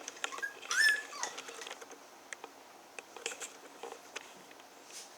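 Six-week-old Havanese puppy giving one short, high, wavering whimper about a second in, with light scattered clicks and patter of the puppies moving about.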